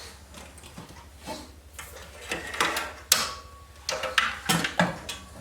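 Light knocks and clicks of computer hardware being handled, a scatter of short taps with one sharper knock about three seconds in.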